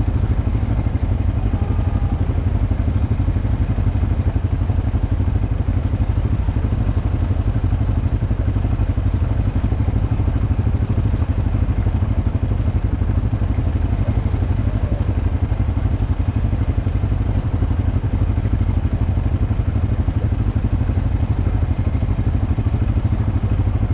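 ATV engine running steadily, a low, even rumble with no change in pitch.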